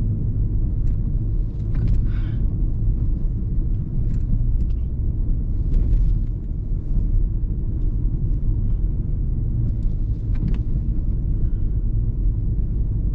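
Car driving on a rough, snow-covered road: a steady low rumble of engine and tyres, with a few brief knocks as the car goes over bumps.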